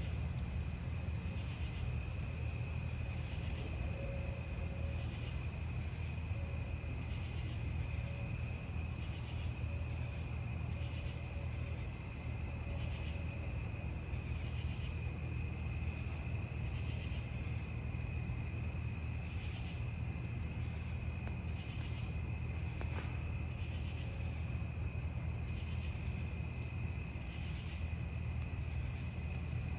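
Crickets chirping without pause, in two steady high trills, with a pulsing chirp about once a second. Under them runs the low, steady sound of a burning wood fire, with a single sharp crackle about two-thirds of the way through.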